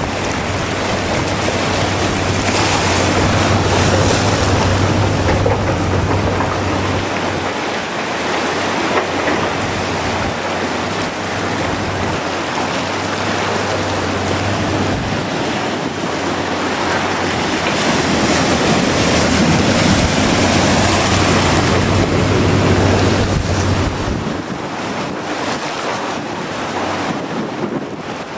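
Strong gusting wind buffeting the microphone, with ocean surf beneath it. A low steady hum comes and goes several times, and the wind eases a little near the end.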